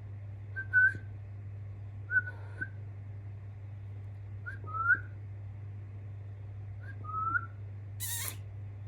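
Young budgerigars giving four short, whistled chirps, each with a slight pitch slide, spaced a couple of seconds apart over a steady low hum. A brief hiss comes near the end.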